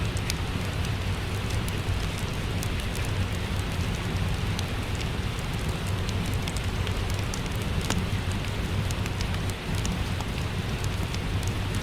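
Steady rain falling, mixed with a crackling wood fire whose small sharp pops come at irregular moments over a low, even rumble.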